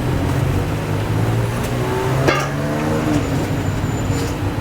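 A motor vehicle's engine running close by with a steady low hum, its pitch rising and falling briefly about halfway through, with a sharp click about two seconds in.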